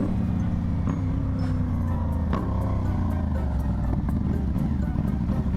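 Sport bike engine running under a helmet camera, its revs falling slowly as the bike slows, with a sharp click about two and a half seconds in and wind noise on the microphone.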